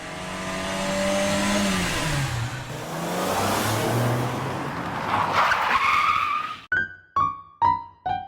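A racing car sound effect: an engine with pitch that falls, ending in a tire squeal about five to six and a half seconds in. It then cuts to a quick descending run of bright keyboard notes.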